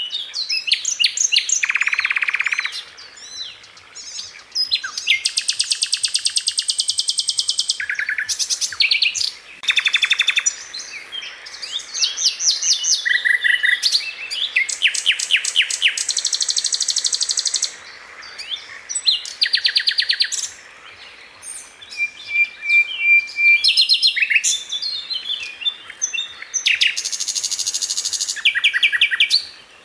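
Sikatan londo flycatcher singing, with bursts of very fast, tightly spaced repeated notes and high trills broken by short pauses. About two-thirds of the way through there is a single held whistled note.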